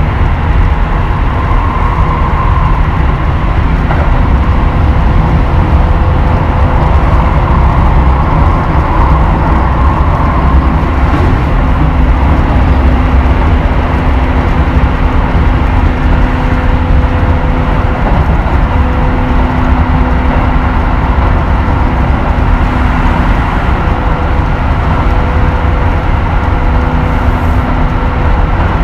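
Keisei 3000 series electric train running at steady speed, a continuous loud rumble of wheels on rail with faint steady hums that come and go.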